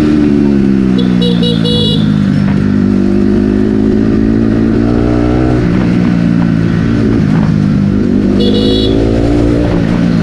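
Bajaj Pulsar NS200's single-cylinder engine and exhaust under way. Its pitch falls over the first few seconds, then climbs and drops again several times. A vehicle horn sounds briefly twice, about a second in and near the end.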